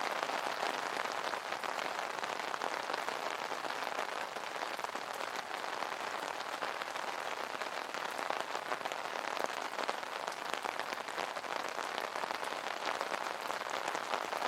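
Steady rain pattering on an umbrella canopy: a dense, even patter of drops with many small individual ticks.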